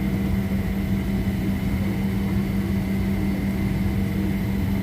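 Steady hum inside a parked airliner's cabin: the air-conditioning and ventilation drone, with a constant low tone running under it.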